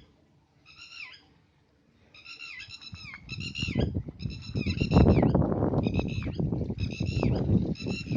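A bird calls over and over in short, clear notes that each drop in pitch. From about three seconds in, a loud, rough, crackling rumble rises under the calls and becomes the loudest sound.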